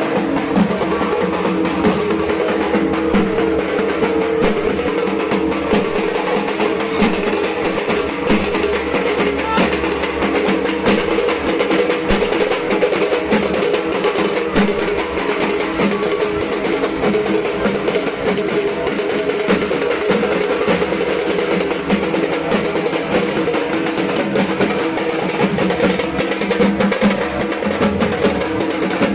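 Dhak, the Bengali barrel drum, played with sticks in a fast, unbroken rhythm.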